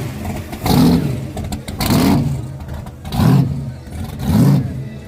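Car engine revved in quick blips, about one rev a second, each rising and falling in pitch.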